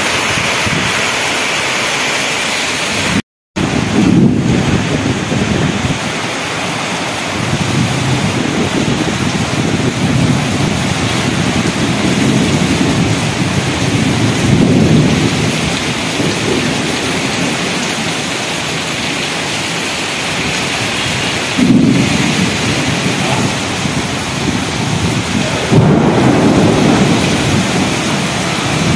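Heavy rainstorm with strong wind: a steady loud downpour hiss with repeated low rumbling swells that come and go every few seconds. The sound cuts out completely for a moment about three seconds in.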